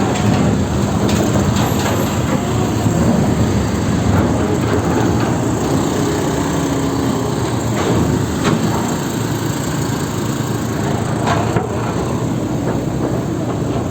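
Steady rumble of vehicle engines on a ferry, with a few sharp knocks and clanks, two of them in the second half.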